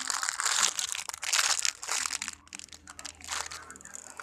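Plastic packaging crinkling as it is handled: dense crackling for about the first two seconds, then sparser crackles.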